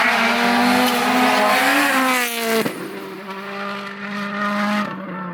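World Rally Car's 1.6-litre turbocharged four-cylinder engine at full throttle, loud at first. About two and a half seconds in the pitch swoops down as the car passes, with a sharp crack. The engine then carries on quieter and steady, and falls away near the end.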